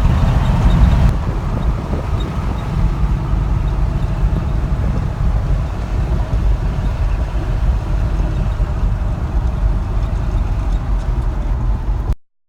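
1972 Chevrolet K10's 350 V8 running through its dual exhaust, a steady low rumble that eases slightly about a second in and cuts off abruptly near the end.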